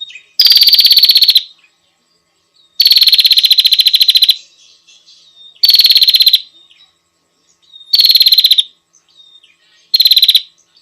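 Female prenjak (prinia) giving its rapid, rattling trill call, used as a lure to draw in males: five loud trills, each lasting about half a second to a second and a half, with short soft chips between them.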